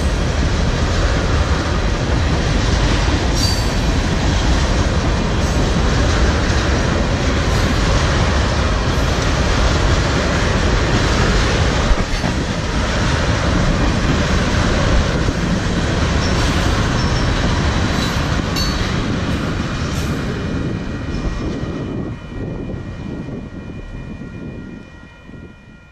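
Ethanol tank cars of a freight train rolling past at speed: a steady, loud rumble of wheels on rail with a few brief high squeals. Near the end the rumble falls away and fades out under a faint steady chord of tones.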